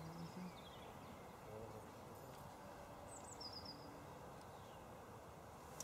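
Faint steady outdoor background with small birds chirping: a short falling call at the start and a quick run of high chirps about three seconds in.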